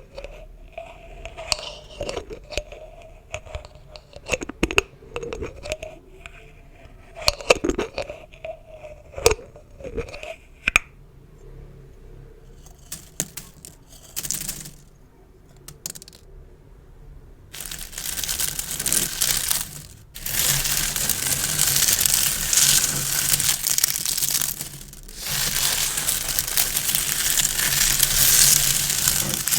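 Gift bows handled close to the microphone: squeaky rubbing with small clicks at first, then loud continuous crinkling of the bow ribbon from a little past halfway, with two brief pauses.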